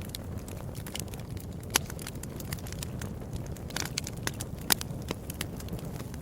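Wood fire crackling in a fireplace: a steady low rumble of flames with frequent sharp pops, two of them louder, about two seconds in and again near five seconds.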